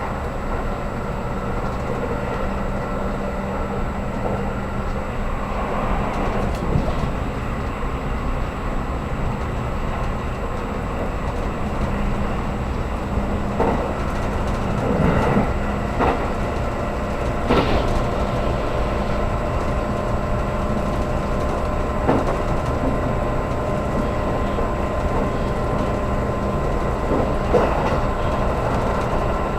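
Steady running noise inside a JR Kyushu 783 series express train car at speed: a low rumble with faint steady tones and a few sharp knocks in the second half.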